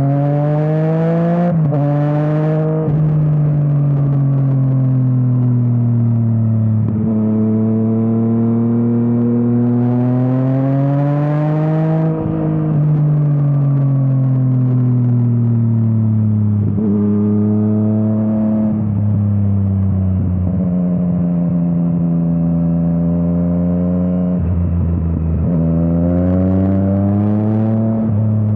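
Yamaha MT-09's three-cylinder engine through an Akrapovič exhaust, revving up and dropping back again and again, with sudden pitch breaks at gear changes. The engine climbs hard about ten seconds in, falls away steadily after that, and climbs again near the end.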